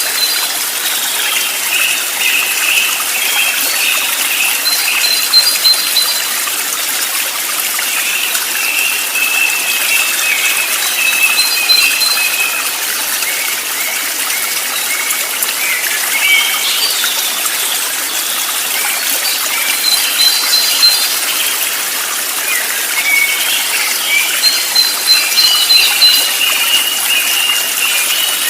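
Steady rush of flowing water, with birds chirping and trilling over it in short phrases that recur every few seconds.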